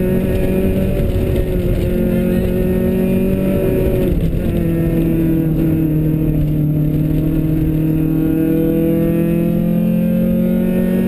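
Rally car's engine heard from inside the cabin while driving hard on a stage: the engine note holds and rises slightly, drops sharply about four seconds in, sags further, then climbs steadily again toward the end, over a steady low rumble.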